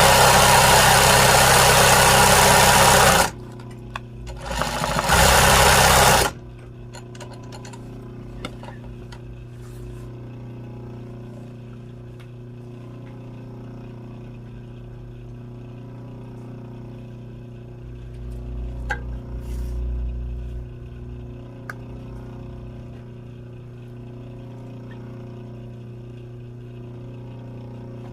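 Sewing machine stitching in two fast runs, about three seconds and then a second and a half, then stopping. A steady low hum carries on afterwards, with a brief low rumble about eighteen seconds in.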